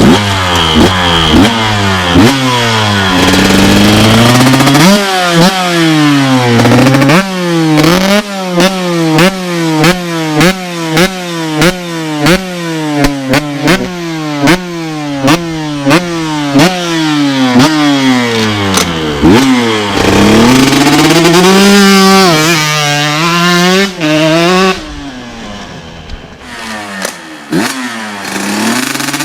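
KTM SX 125 two-stroke single-cylinder motocross engine ridden hard on a track. Its pitch climbs steeply and falls sharply again and again, about once a second, as the throttle is opened and chopped through the gears. About two thirds of the way in it holds a steadier high rev, then drops lower near the end.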